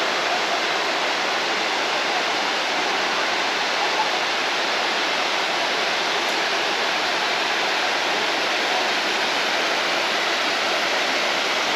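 Water rushing steadily over a small dam, an even, unbroken roar of falling water.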